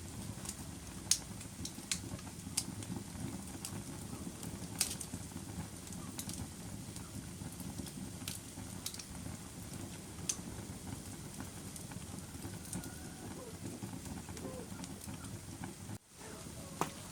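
Wood fire in a fireplace burning with a low steady rush, broken by irregular sharp crackles and pops, a few of them louder snaps. The sound drops out for a moment near the end.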